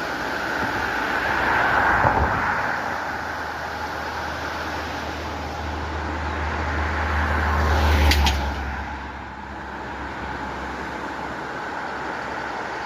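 Steady rush of a flowing stream. A low rumble swells to a peak about eight seconds in, then drops away.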